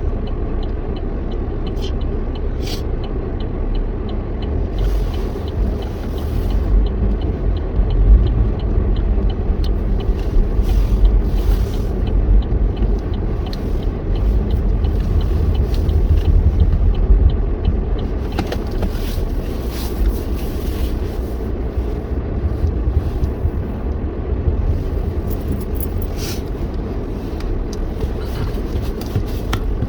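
Car driving on the road: steady low rumble of engine and tyres, swelling louder for a stretch in the middle, with scattered light clicks.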